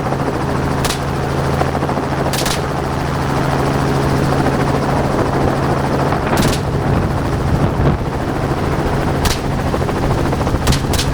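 Helicopter's steady rotor and engine drone, with about six gunshots fired from the helicopter at irregular intervals, the last two in quick succession near the end.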